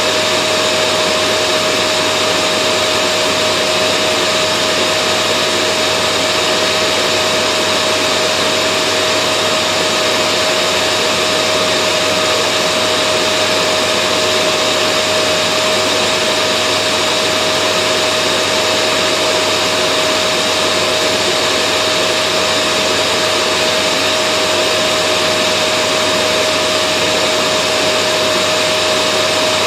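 Vacuum cleaner motor running continuously: a steady, unchanging whine over a dense rush of air, played as white noise to soothe babies to sleep.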